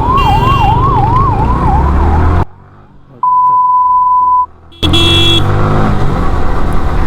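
Emergency vehicle siren sounding in a fast rising-and-falling cycle, about two and a half times a second, over wind and traffic rumble. The siren cuts off abruptly about two and a half seconds in. A short quiet follows with a steady single beep, then the traffic noise comes back with a brief vehicle horn near five seconds in.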